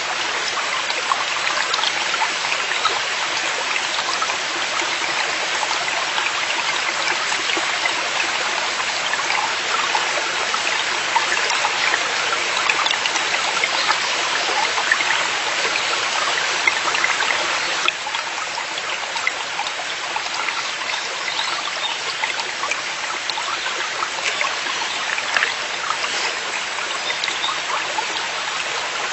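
Forest valley stream flowing steadily, a continuous rush and trickle of water, dropping slightly in loudness about two-thirds of the way through.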